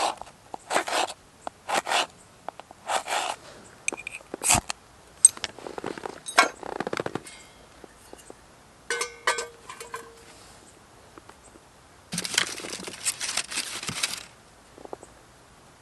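Camp gear being handled: a run of short scraping or rustling strokes with sharp clicks. About nine seconds in comes a cluster of metallic clinks, one ringing briefly, and a longer scraping stretch follows near the end.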